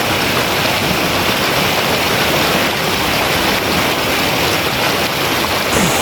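Steady rush of flowing water from a mountain stream, loud and unbroken.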